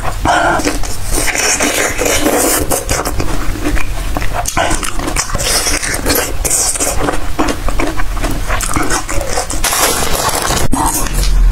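Close-miked biting and chewing of a green tomato, with dense crackling mouth sounds. About ten seconds in, a crisp packet crinkles as it is torn open.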